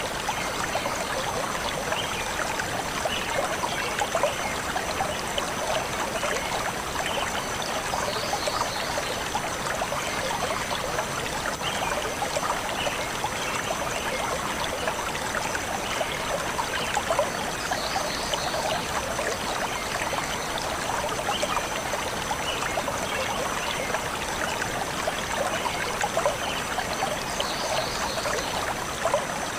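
A forest stream flowing and trickling steadily, with birds chirping now and then, in short calls that come back about every nine seconds.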